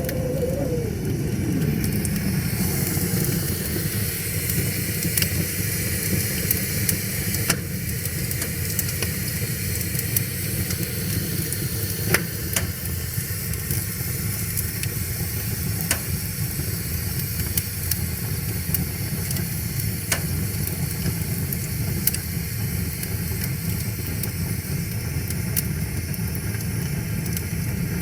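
Wood fire crackling and hissing, with scattered sharp pops, over the steady low rush of a river.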